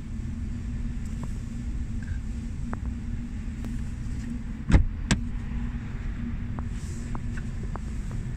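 Audi A5 3.0 TDI V6 diesel, fitted with a Maxhaust active sound booster, idling with a steady low rumble. Two sharp knocks come about five seconds in.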